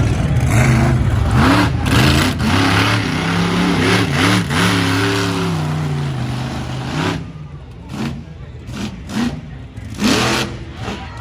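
Monster truck's supercharged V8 revving hard, its pitch rising and falling again and again. About seven seconds in it backs off to short blips of throttle.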